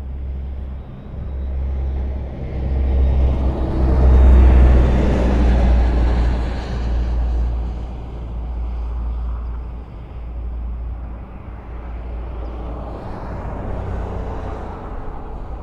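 Highway traffic with a steady low rumble of tyres and engines. One vehicle passes loudly about four seconds in, and a smaller pass swells near the end.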